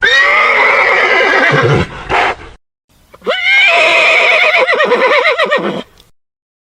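Horse neighing twice: a first call of about two seconds, then after a short gap a longer whinny whose pitch quavers up and down.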